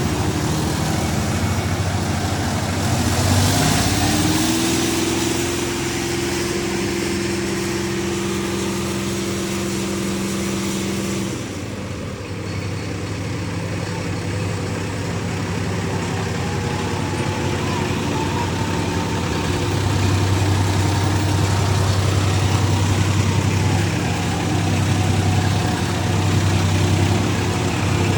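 Tractor diesel engine running hard: it revs up about three seconds in, holds a high steady pitch, and drops back abruptly after about eleven seconds, then runs steadily at lower revs.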